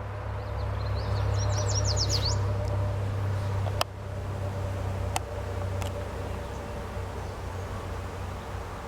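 Swarm of honeybees buzzing steadily around a hive box. A bird chirps quickly a few times about a second in, and a few sharp clicks come later.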